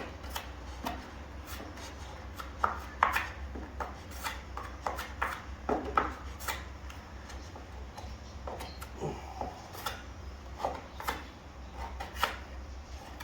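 A drywall blade scraping and tapping over wet joint compound on a wall, in a run of short, irregular scrapes and clicks.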